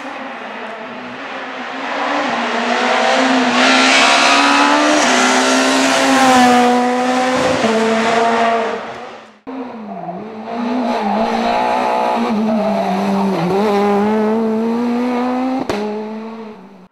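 Rally cars' engines held at high revs at full throttle, with brief dips in pitch on lifts and shifts. The first car builds to a loud pass and then breaks off abruptly a little over halfway; a second car's engine takes over and runs at high revs to the end.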